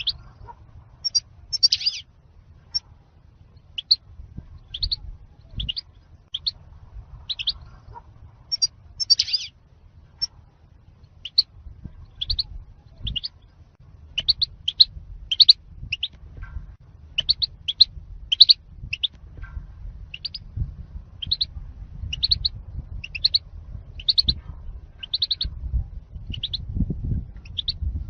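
European goldfinch singing: a run of short, high chirps and twitters, about one to three a second, over a low background rumble.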